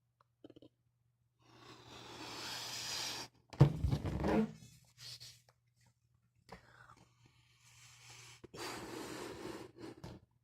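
Breath blown into a latex balloon: two long blows, with a short loud sputter of air about three and a half seconds in.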